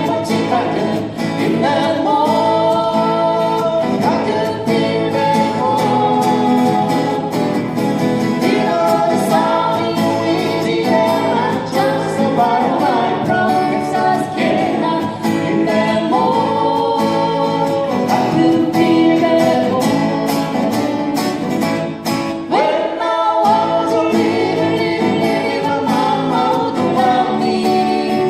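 Live band music: a singer with guitar accompaniment playing a song.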